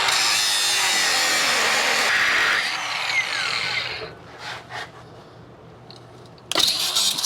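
A grinder cutting metal, throwing sparks while cutting a stuck brake line fitting: a loud, even grinding noise that eases and winds down about three seconds in, pauses with a couple of short touches, then starts again near the end.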